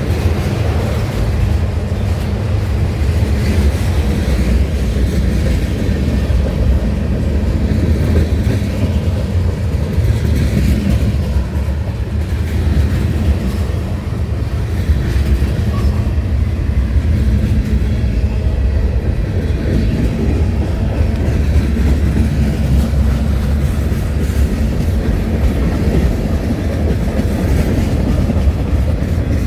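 Freight train rolling past: a steady rumble and clatter of railcar wheels on the rails.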